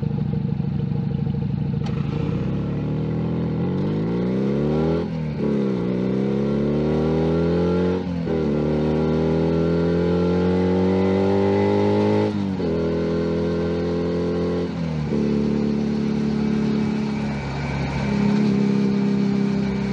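Junak M11 Cafe 125cc single-cylinder motorcycle engine pulling away from idle and accelerating up through the gears, its pitch rising and breaking at three upshifts about 5, 8 and 12 seconds in. It then eases off and runs at a steadier, lower pitch while cruising.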